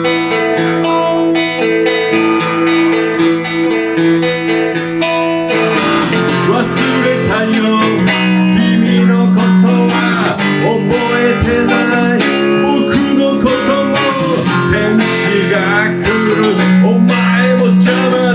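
Telecaster electric guitar through a Roland JC-120 amp playing an instrumental passage between sung lines. Sustained notes ring for about six seconds, then the playing turns to busier runs of single notes.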